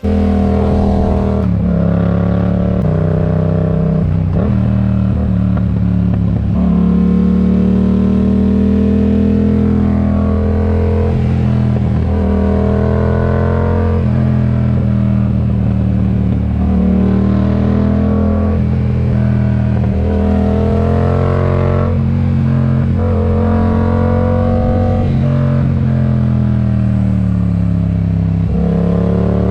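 Yamaha MT-07's parallel-twin engine through an aftermarket RoadsItalia exhaust, running under load on the road. Its pitch repeatedly climbs with the throttle, then steps and drops at gear changes.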